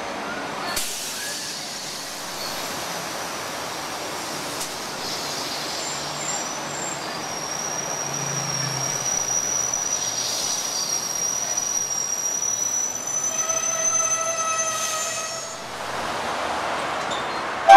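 SA/SD push-pull passenger train, SD driving carriage leading, running into the platform and squealing high and steadily for several seconds as it slows. The squeal edges slightly up in pitch. About thirteen seconds in, a shorter tone with several overtones sounds for a couple of seconds, and a short, very loud horn toot comes at the very end.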